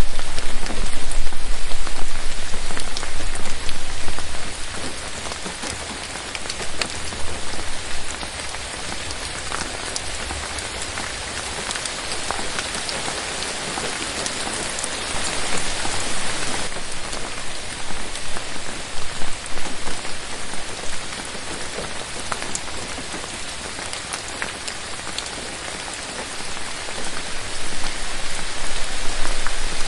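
Steady rain falling on forest foliage, a dense hiss with many separate drops tapping. A low rumble underneath is louder for the first few seconds and again near the end.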